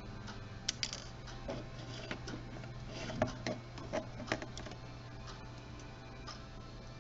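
Small clicks and taps of hands handling a camcorder's plastic casing and small parts during reassembly, scattered, with a cluster about a second in and another around three to four seconds in, over a steady low hum.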